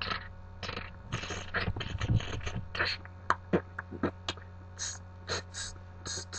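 A man making quick vocal mouth sounds, short breathy hisses, gasps and clicks one after another in a beatbox-like string, over a steady low electrical hum.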